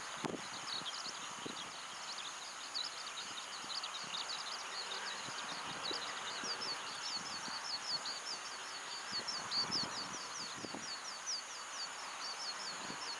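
Birds chirping in a rapid, continuous twitter of short high notes, over steady wind noise with occasional low buffets of wind on the microphone.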